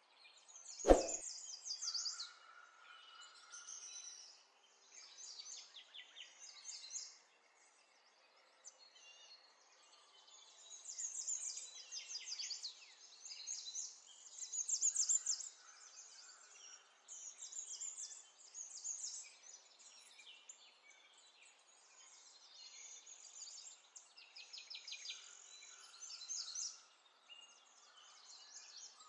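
Small birds chirping and twittering in repeated short bursts of quick high notes, with a single sharp click about a second in.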